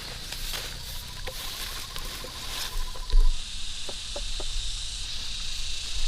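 Rustling and light crackling of leaves and vines, with a dull bump about three seconds in, over a steady high insect buzz.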